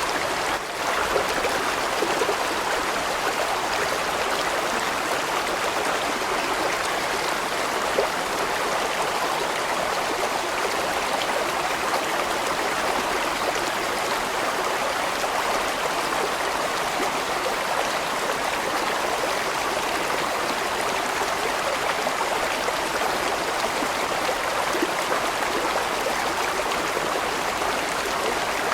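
Large mountain stream flowing steadily, water rushing and splashing over rocks.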